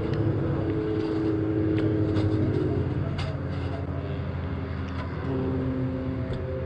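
Citroën 2CV racing engines running steadily in the pit lane, their pitch drifting slowly, with a few sharp knocks from the crew working on the car during the refuelling stop.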